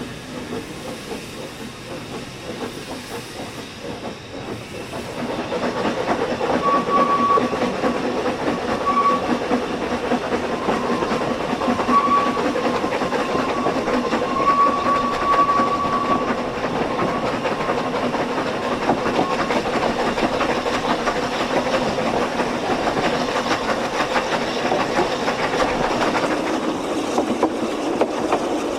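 Ffestiniog Railway narrow-gauge train running along the line, with a steady steam hiss and the clatter of wheels on the rails; it grows louder about five seconds in. A thin high tone sounds in short spells for several seconds after that.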